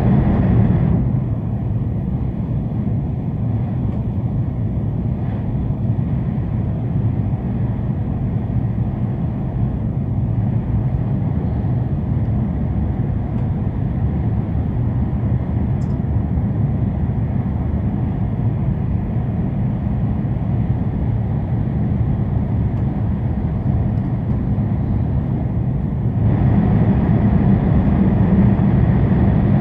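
Steady rumble and rush of a Tohoku Shinkansen bullet train running at speed, heard inside the passenger cabin. It drops to a quieter, duller level about a second in as the train comes out of a tunnel. It turns louder and brighter again near the end as the train enters another tunnel.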